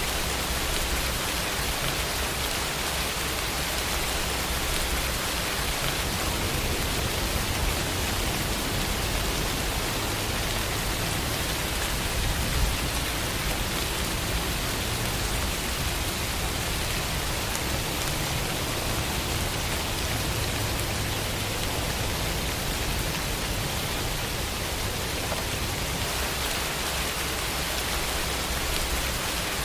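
Steady rain, a dense even hiss. A low rumble sits underneath from about six seconds in until a few seconds before the end.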